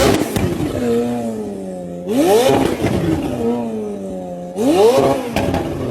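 Sports car engine revved twice, about two and a half seconds apart: each time the pitch shoots up sharply and then sinks slowly back toward idle.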